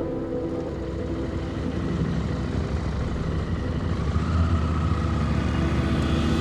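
Motorcycle engine running on the move, growing louder about four seconds in.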